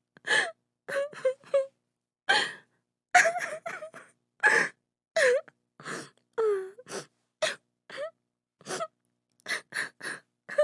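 A woman sobbing: short, broken crying sounds and sharp gasping intakes of breath, one after another, with a few longer wavering wails that slide in pitch.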